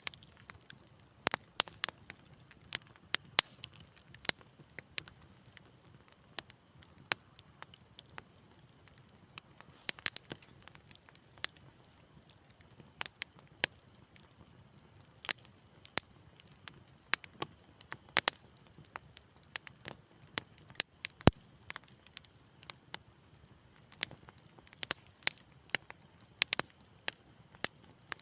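Wood fire crackling in a fireplace: irregular sharp pops and snaps, several a second, over a faint low hiss, with one louder pop about two-thirds of the way through.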